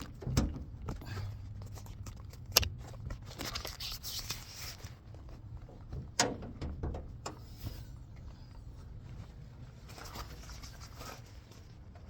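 Scattered clicks, knocks and rustling from someone handling things and moving about, over a low steady rumble, with two short stretches of hiss-like rustle.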